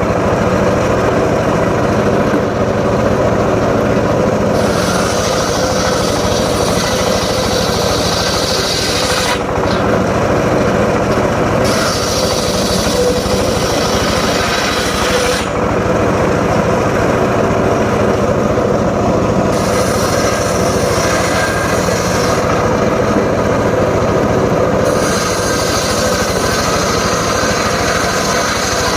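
Homemade engine-driven circular saw running and cutting teak wood, the cutting noise strengthening and easing several times as the wood is fed through the blade.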